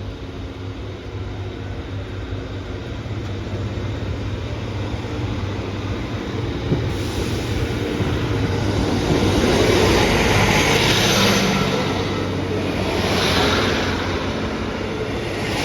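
Train approaching and passing the level crossing: a steady low engine hum under a rumble of wheels that grows louder, then three swells of wheel noise a few seconds apart as the carriages go by.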